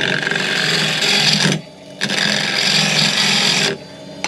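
Gouge cutting into wood spinning on a lathe, in two scraping passes with a short break between, over the steady hum of the lathe motor, as the piece is hollowed out.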